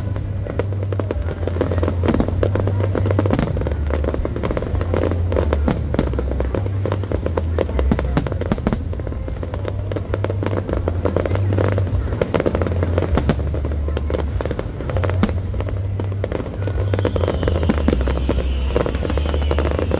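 Large fireworks display: aerial shells bursting and crackling in rapid, continuous succession, over loud music with a heavy bass.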